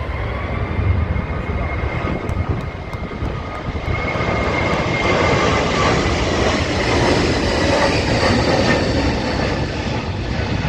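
Airbus A321neo's twin Pratt & Whitney geared turbofans running at high thrust during a go-around: a loud jet rumble with a whining tone that falls slightly in pitch. It grows louder over the first few seconds, then holds steady.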